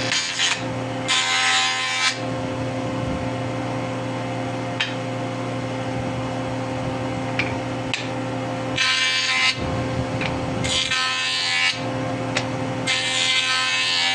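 Electric wood planer jointer running steadily, with wood fed across the cutterhead in passes about a second long: one near the start, then three in quick succession in the second half, each a loud hiss of cutting over the motor's hum.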